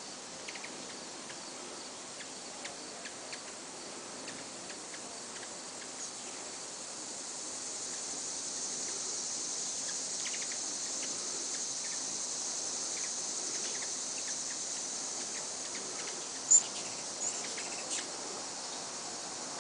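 A steady, high-pitched insect drone that grows louder about seven seconds in, with scattered short, high chirps from a swarm of hummingbirds. One sharper, louder chirp comes near the end.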